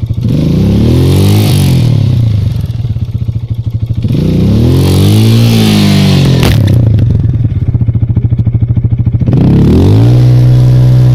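Minsk X200 motorcycle engine running, revved up and let back down three times in a row as the bike is driven to pull it out of mud. A short sharp knock about six seconds in.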